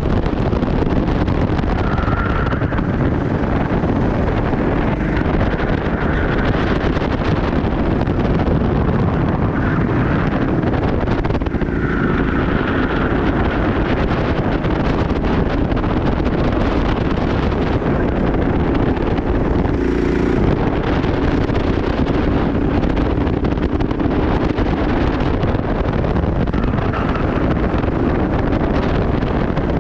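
Steady wind noise buffeting the microphone over a continuous low rumble of movement.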